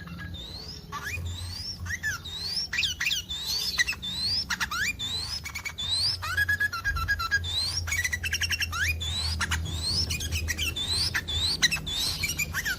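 Sooty-headed bulbuls (trucukan) calling in breeding condition: a run of short rising whistled notes with quick chattering calls between them, over a steady low hum.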